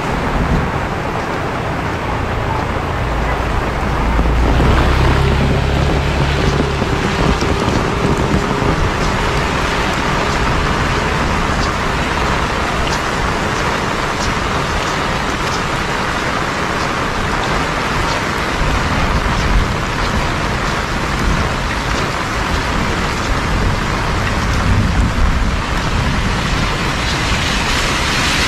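Heavy rain pouring steadily. A deep rumble swells about four seconds in and fades after a couple of seconds.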